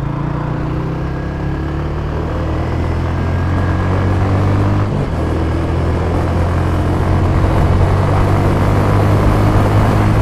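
Motorcycle engine running steadily under way, heard from the rider's seat with road and wind noise. Its pitch and loudness climb gradually, with a brief dip about five seconds in.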